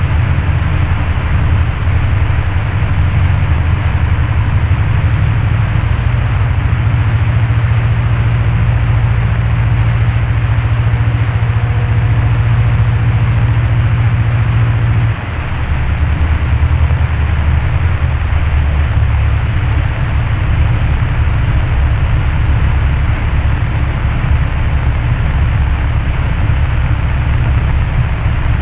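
Cessna 172 Skyhawk's piston engine and propeller droning inside the cabin during the landing, with a brief drop in level and a change in engine pitch about halfway through.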